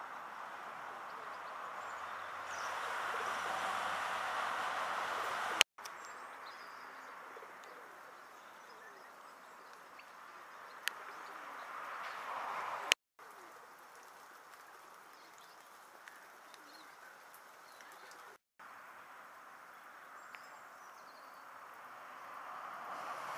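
Outdoor background with birds chirping and pigeons cooing over a steady rushing noise, broken by a few sharp clicks and brief dropouts.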